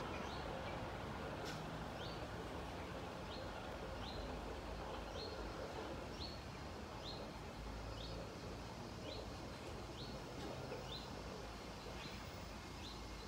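Short rising bird chirps repeated about once a second, over the low, steady rumble of a Class 465 Networker electric train drawing slowly into the platform.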